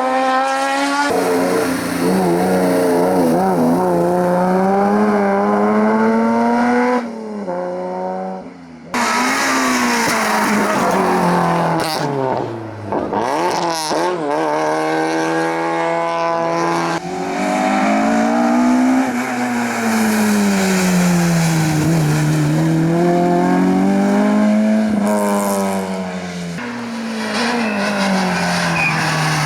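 Hillclimb competition cars running hard, one after another. The engines rev up and drop back again and again as they shift and brake for corners.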